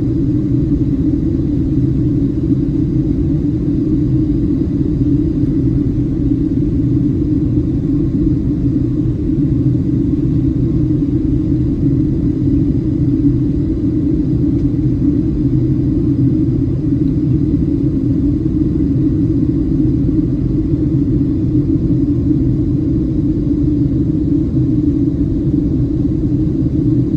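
Cabin noise inside a Boeing 737-700 in flight: a loud, steady low rumble of engines and rushing air that does not change.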